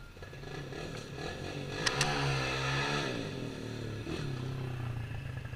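Small off-road vehicle engine running, its note rising and then falling over a couple of seconds, loudest about two seconds in, with two sharp clicks at the peak.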